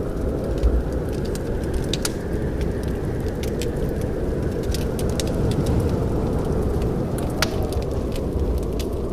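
Wood fire crackling in a fireplace: irregular sharp pops and snaps over a steady low noise of the burning fire.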